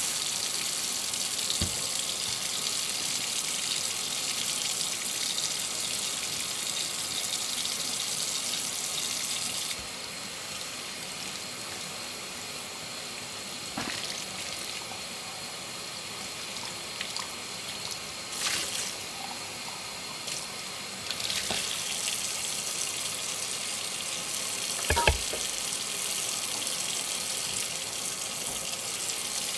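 Kitchen tap running into a sink during hand dishwashing. The flow eases for a stretch in the middle, and dishes knock against each other a few times.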